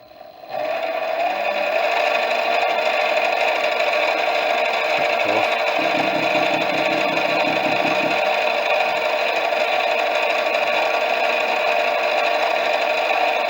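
Metal lathe starting about half a second in and then running steadily while turning down hex bar stock. The cut is noisy because the tool is cutting off the hex bar's corners. A pulsing low rattle comes in for a couple of seconds midway.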